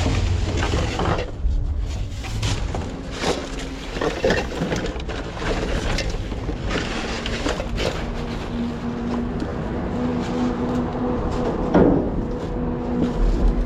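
Rummaging through discarded items: irregular rustling, knocks and clatters of things being handled, with a steady hum starting about two thirds of the way in.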